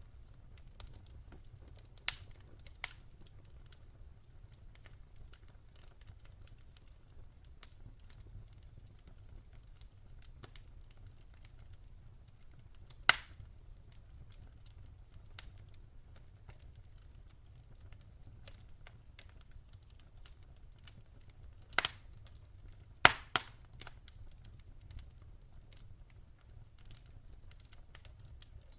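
Campfire burning with a low steady rumble and sporadic sharp crackles and pops, a few louder snaps about two, thirteen and twenty-two to twenty-three seconds in.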